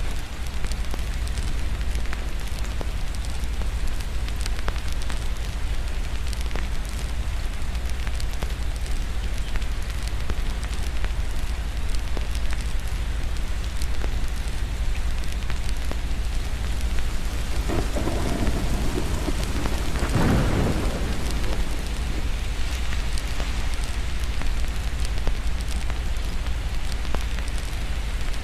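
Steady rain with a low rumbling bed and the scattered crackle of a fireplace; a roll of thunder swells up about two-thirds of the way through and fades.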